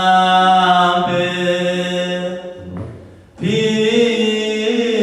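A solo voice singing a song in Romani in long, drawn-out held notes. It breaks off briefly about three seconds in, then takes up another long note.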